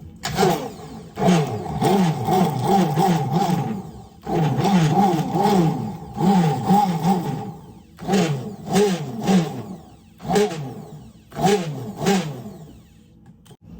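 A small electric drink mixer whirring in several runs with short stops between them, its pitch swinging up and down about two or three times a second as it mixes collagen powder into coffee.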